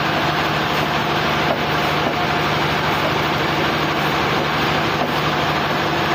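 Portable sawmill running: steady engine noise with a constant hiss, unchanging throughout.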